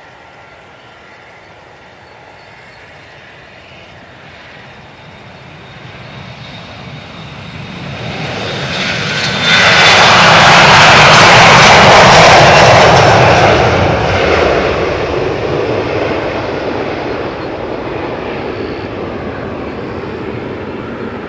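Boeing 737-500's CFM56-3 jet engines passing by: the noise grows steadily louder, is loudest about ten to thirteen seconds in, then falls back to a lower steady rumble.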